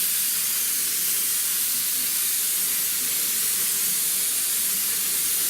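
Pneumatic spray gun spraying the last coat in one continuous, steady hiss of atomising air.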